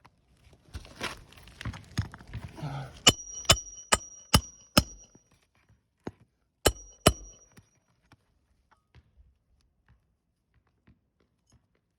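Handling and rustling of asphalt shingles, then a hammer striking a roofing nail: five quick ringing metal-on-metal blows, and two more a couple of seconds later.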